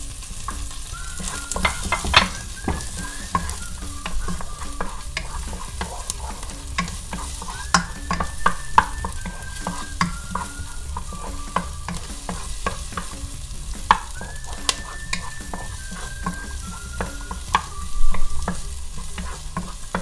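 Garlic, onion and ginger frying in oil in a pot, sizzling steadily with frequent crackling pops. Several short high steady tones come and go over the sizzle.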